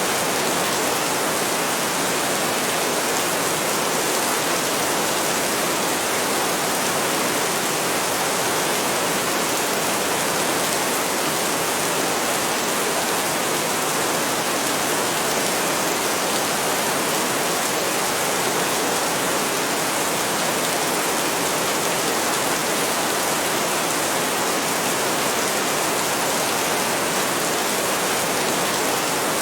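Heavy rain falling steadily: a dense, even hiss with no thunder and no separate drops standing out.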